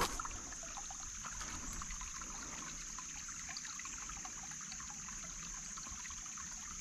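Small creek trickling and gurgling, a faint steady water sound, with a steady high-pitched hiss over it.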